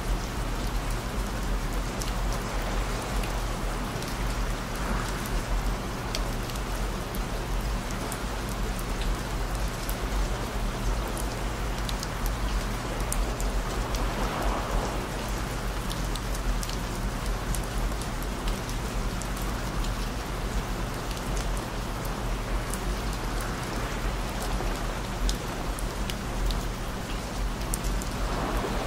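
Steady rain falling, with scattered drops ticking, layered over a bed of low steady hum tones.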